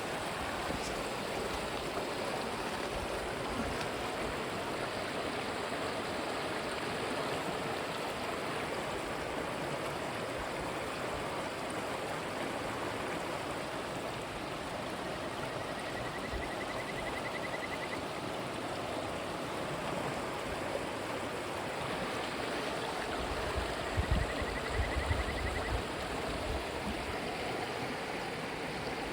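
Clear river stream running in a steady rush of water. A faint high trill sounds twice, and a few low thumps come about two-thirds of the way through.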